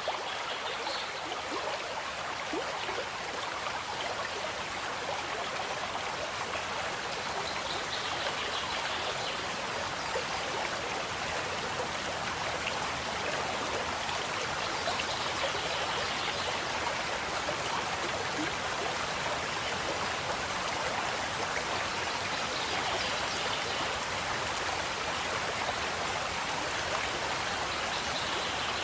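Aquarium water running and splashing steadily in a constant trickle, the sound of a fish tank's water circulation.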